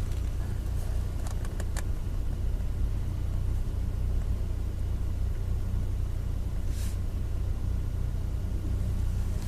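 Car driving through city streets, heard from inside the cabin: a steady low rumble of engine and tyres, with a few light clicks between one and two seconds in and a short hiss near the end.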